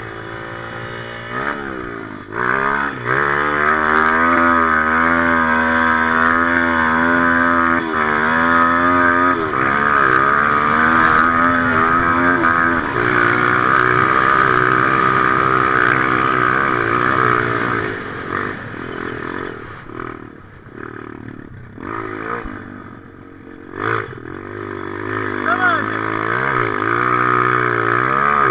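Motocross motorcycle engine revving hard, its pitch climbing steeply about two seconds in and wavering up and down with the throttle. The engine eases off for a few seconds past the middle, then picks up again near the end.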